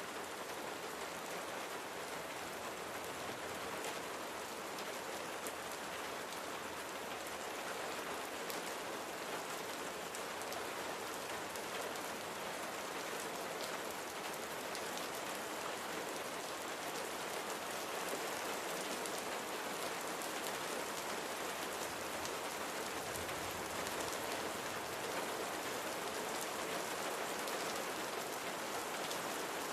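Steady rain falling, a dense patter of many fine drops over an even hiss, with no thunder.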